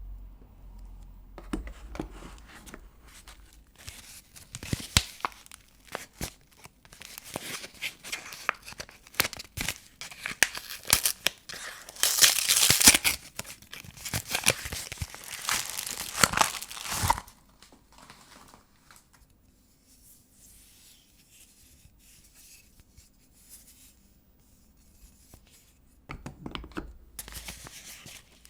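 Wrapper of a bar of vintage soap being torn open and crinkled by hand: a long run of crackling tears and rustles, loudest a little before the middle, then only faint handling, then another short spell of crinkling near the end.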